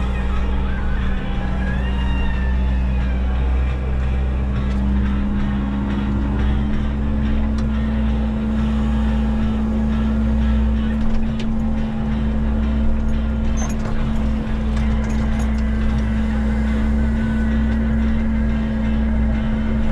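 Diesel engine and hydraulics of a Menzi Muck walking excavator running steadily under work, a continuous drone whose note steps up slightly about six seconds in.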